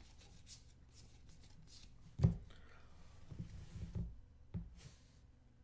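Basketball trading cards being handled and flipped through, with a sharp tap a little over two seconds in and a few softer rustles and clicks after.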